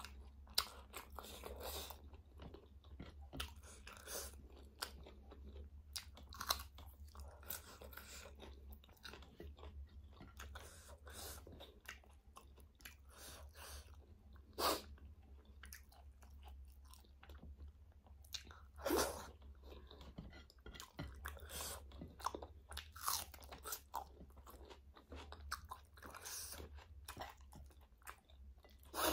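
Close-miked chewing of a meal eaten by hand: irregular wet mouth clicks and crunches, a couple louder ones about halfway through, over a steady low hum.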